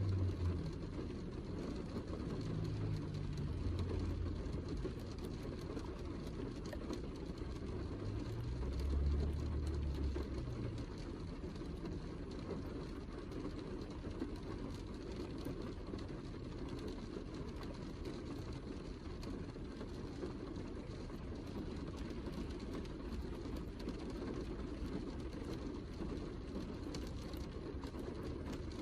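Heavy rain falling steadily, a dense wash of drops with fine scattered pattering on top. A low rumble swells twice in the first ten seconds.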